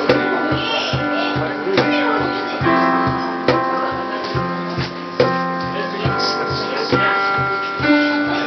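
Live band music: a keyboard holding chords over a steadily pulsing bass line, with sharp cajón strikes about once a second.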